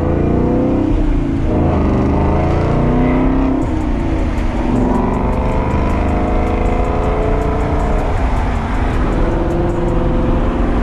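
Ford Mustang GT's 5.0-litre V8 running through a loud H-pipe exhaust, revving up and easing off several times under way, with a deep rumble. The sound echoes off parked cars.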